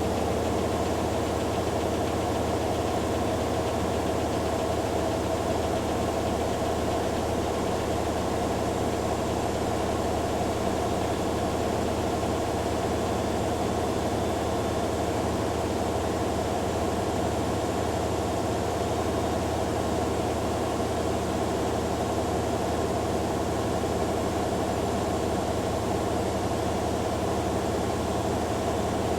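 Two front-loading washing machines, a Hoover Dynamic Next DXA610IW3 and a Beko Pro AquaTech WX94044EO, running their spin cycles together. The drum motors give a steady hum and whirr, with several steady tones and no change in speed.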